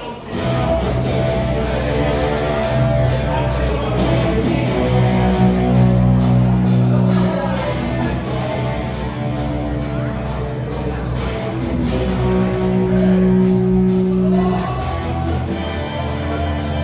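Rock band playing live: electric guitar and bass over drums, with a cymbal struck about three times a second. The music starts suddenly about half a second in, after crowd chatter.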